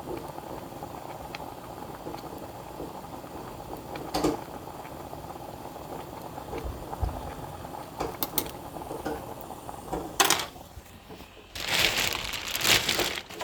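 Steady simmering hiss from a pot of soy candle wax melting, broken by a few sharp clicks and knocks. Near the end comes a loud stretch of handling noise.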